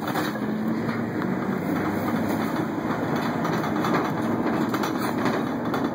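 Steady rumble and rattling of a U-Haul moving truck on the road, heard from inside its cargo box, with a low drone and many small clatters.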